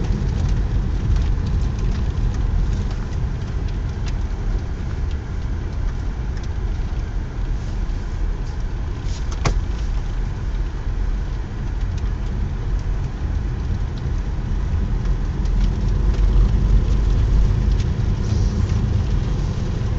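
Car driving up a snow-covered mountain road, heard from inside the cabin: a steady low rumble of engine and tyres, with one sharp click about halfway through.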